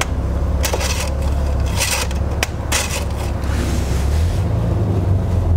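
Several sharp scrapes and knocks from handling the oil bottle, funnel and filler cap at the engine's fill neck, over a steady low rumble.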